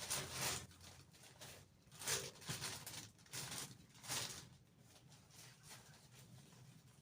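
Rustling and scraping in several short bursts over the first few seconds, fading to quiet handling noise afterwards.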